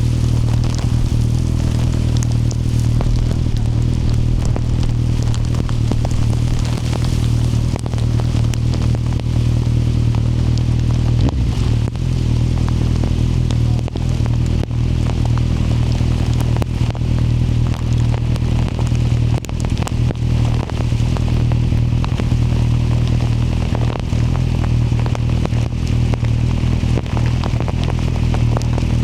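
Kawasaki motorcycle engine running at a steady cruise, a low drone, with rain spattering and crackling over it. The engine note shifts briefly about eleven seconds in.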